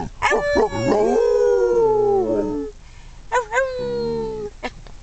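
A dog howling: one long howl that slowly falls in pitch, then a second, shorter howl starting a little over three seconds in.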